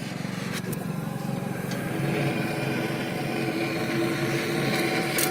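Two-stroke Yamaha RX motorcycle engine running steadily, getting louder about two seconds in.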